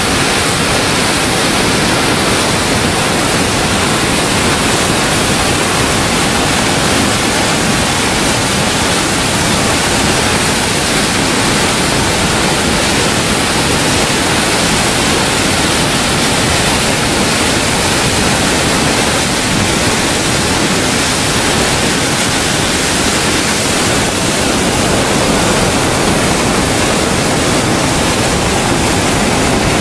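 A loud, even rush of water with no breaks, the sound of torrential rain or flooding water.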